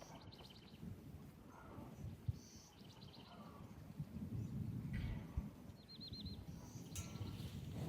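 A small bird chirps in short, quick trills several times, over a low, uneven rumbling noise.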